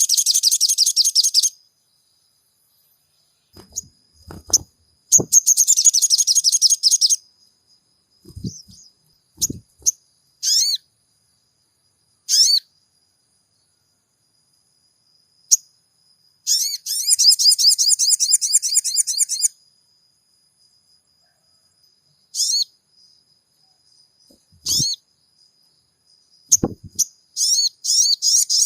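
Crimson sunbird (sogon) singing: rapid, high-pitched chattering trills in bursts of two to three seconds, with single sharp chirps between bursts. A faint steady high tone runs underneath, and a few dull low thumps come several times, twice close together near the start and again near the end.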